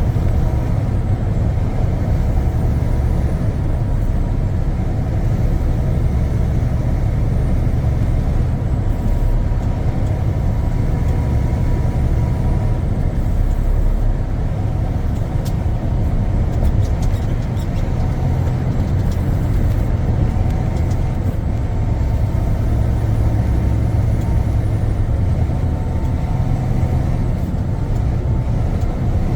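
Semi-truck driving at highway speed: a steady low drone of engine and tyres.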